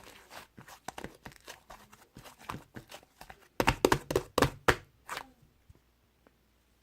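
Slime being squished and stretched by hand: a run of short sticky clicks and pops, loudest in a cluster about four seconds in, dying away near the end.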